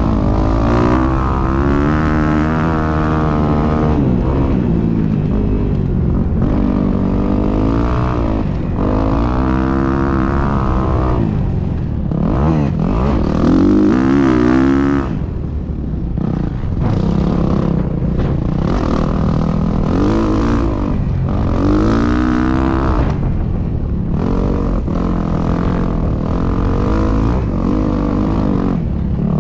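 Dirt bike engine being ridden hard. The pitch climbs and drops again and again as the rider works the throttle and gears.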